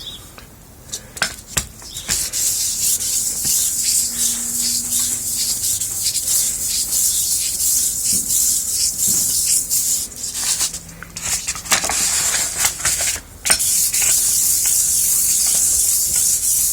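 Steel meat mincer plate lapped by hand on wet 1200-grit wet-and-dry sandpaper: a steady, high, scratchy rubbing with a couple of short pauses, after a few light clicks at the start.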